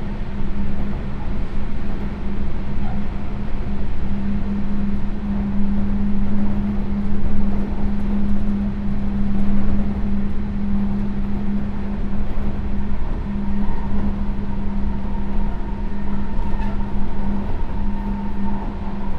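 Running sound inside a Sotetsu New 7000 series electric train car: a steady rumble of wheels on rail with a constant low hum. A higher steady tone joins about two-thirds of the way through.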